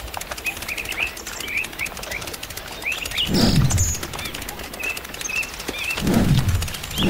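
Small birds chirping repeatedly outdoors, with a louder low sound sliding down in pitch about three times, each lasting under a second.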